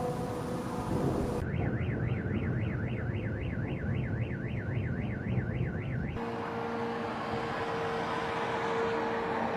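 An electronic warbling siren or alarm, sweeping up and down about four times a second over a low rumble, cuts in after about a second and a half and stops abruptly after about five seconds. It gives way to street noise with a steady hum, like vehicles running.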